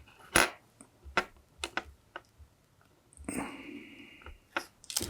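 A few light clicks and taps from handling small parts and tools while soldering LED legs on a circuit board, with a short stretch of faint hiss a little past the middle.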